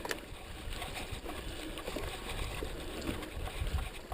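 Wind rumble on the microphone with scattered rattling clicks from a mountain bike riding over rough trail.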